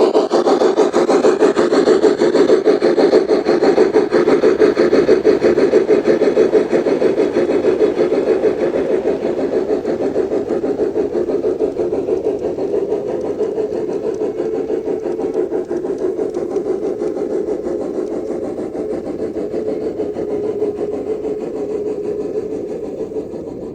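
G scale model train running on track, its motors and wheels making a steady rumble with a fast, even flutter. It slowly fades over the second half, as the train moves away.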